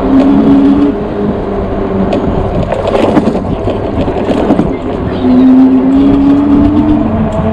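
Engwe Engine Pro e-bike's hub motor whining as it rides, a steady tone that swells and rises slightly in pitch at the start and again from about five seconds in, over wind and tyre rumble.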